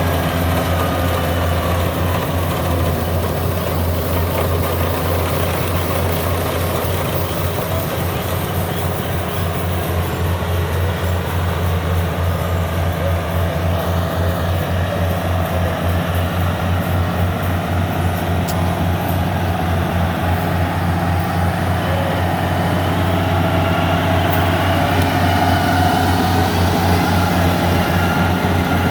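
Yanmar 70V combine harvester's diesel engine running steadily under load with a low, fast, even throb while the machine cuts and threshes rice. It grows a little louder near the end.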